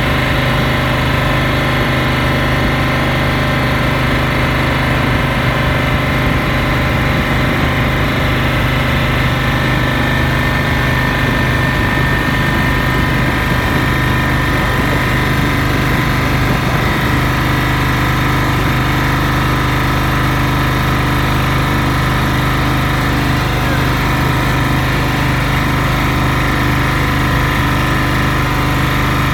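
A boat's engine running steadily at a constant speed: a loud, even drone that does not change.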